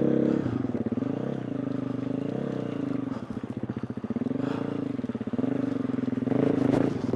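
A 2020 KTM 350 EXC-F's single-cylinder four-stroke engine under the rider's throttle, revs rising and falling over and over as the dirt bike works through deep, slippy mud.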